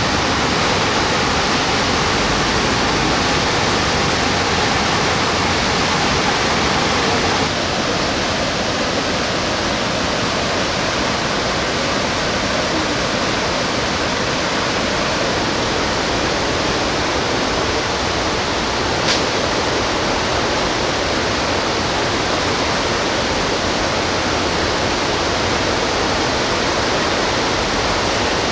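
Steady rush of a mountain-valley stream running high after heavy monsoon rain, water pouring over rocks. The sound shifts slightly about 7 seconds in, and a single short click comes near 19 seconds.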